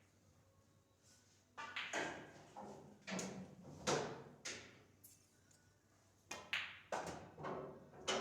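Irregular sharp clacks and knocks of pool balls being handled on a pool table, each with a short ring, a dozen or so in quick clusters after a quiet first second and a half.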